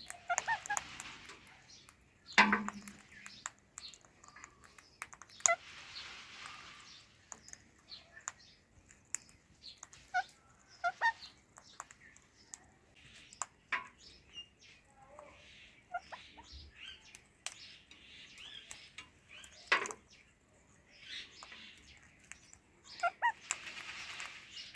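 An Indian ringneck parakeet and an Alexandrine parakeet making scattered short chirps and squawks, with sharp clicks between them. The loudest is a sudden harsh call about two and a half seconds in.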